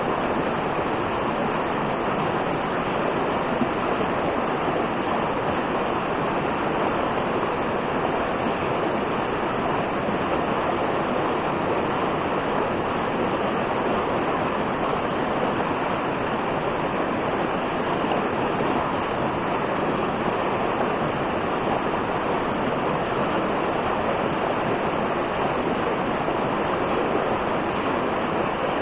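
Waterfall or fast stream rushing steadily, a constant even hiss of falling water.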